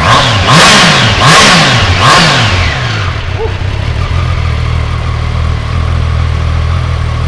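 Triumph three-cylinder motorcycle engine idling, blipped three times in quick succession in the first couple of seconds, each rev rising and falling straight back to idle, then settling to a steady idle.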